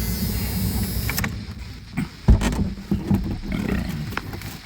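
Low, uneven rumble of the police aircraft's engine noise heard through its radio and intercom audio, with a sharp click about two seconds in.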